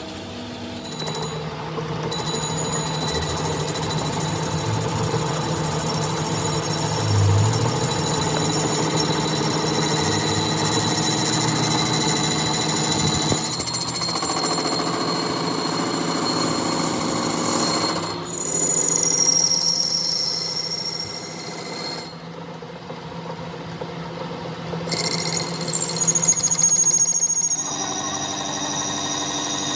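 Machinery running with a steady whine and a rattling chatter. The sound changes abruptly several times.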